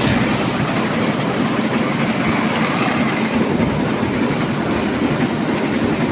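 A train passing close by, its wheels running over the rails in a loud, steady rumble.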